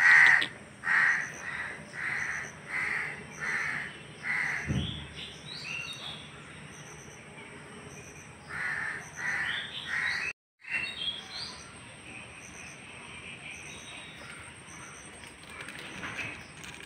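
A bird calling over and over, about half a dozen calls in an even run, then after a pause four more in quick succession. A low thump comes about five seconds in.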